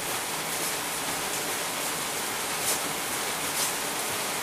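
Steady rain falling, an even dense hiss, with a couple of brief louder spatters in the second half.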